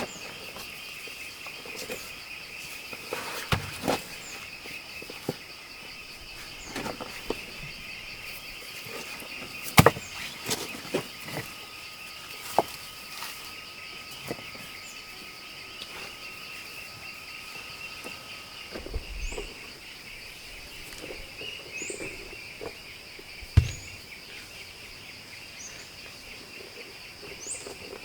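Steady high chirring of an insect chorus, with a thin steady whistle through the middle part. Scattered sharp knocks come at intervals, the loudest about ten seconds in and again near 24 seconds, and short high chirps come now and then in the second half.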